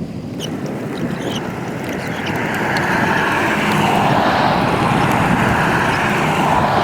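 Storm wind rushing on the microphone, swelling louder over the first few seconds and then holding steady, with a few light ticks in the first second or so.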